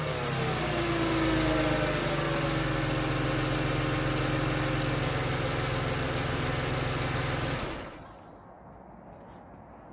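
Mercedes M112 V6 engine, freshly fitted with new spark plugs, settling from its start-up revs into a steady idle on all six cylinders. It is switched off about three-quarters of the way through, and the sound dies away quickly.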